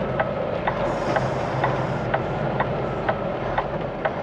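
Indicator flasher clicking steadily about twice a second inside a semi truck's cab, over the low steady hum of the idling diesel engine.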